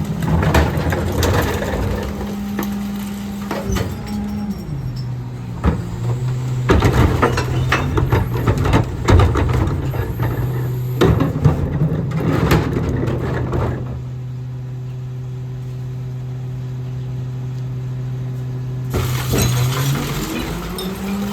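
Autocar ACX rear-loader garbage truck's diesel engine running, dropping to a lower steady speed about four seconds in and picking up again near the end. Over it, recycling clatters into the Pac-Tech hopper with glass bottles clinking and breaking until about two-thirds of the way through.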